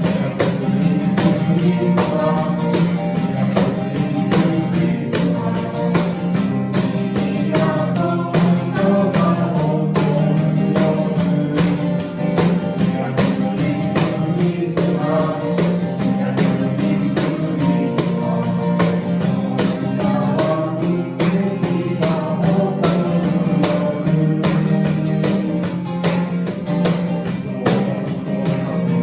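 Live band music starting on a count-in: a strummed guitar and a steady percussion beat, with singing.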